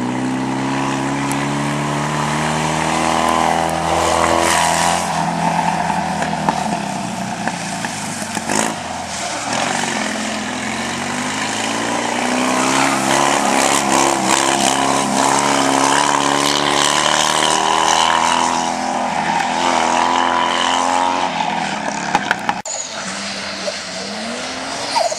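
Rally cars' engines revving hard on a sprint stage, the engine pitch repeatedly climbing and dropping as they accelerate and ease off. There is an abrupt break near the end.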